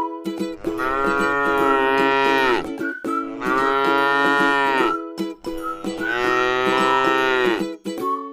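Cow mooing three times, each moo a long call of about two seconds that drops in pitch as it ends.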